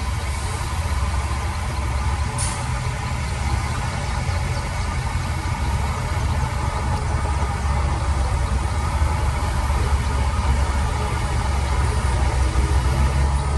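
Heavy diesel engine of an earthmoving machine running steadily with a deep rumble, with a brief hiss about two and a half seconds in.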